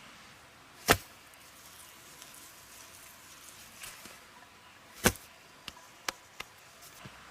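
Two sharp knocks about four seconds apart, the second followed by three lighter taps within a second and a half, over a faint steady hiss.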